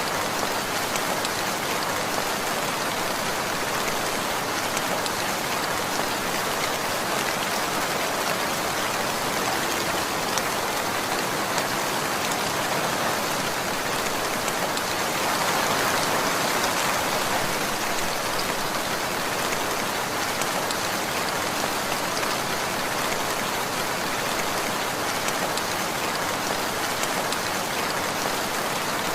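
Steady rainfall, an even hiss of raindrops pattering on surfaces, swelling slightly louder for a few seconds about halfway through.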